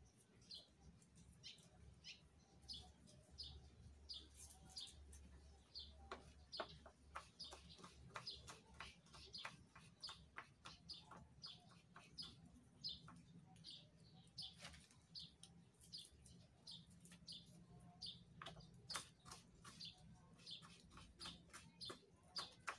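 A small bird chirping over and over: faint short high chirps about twice a second, steady throughout, with a few scattered faint clicks in between.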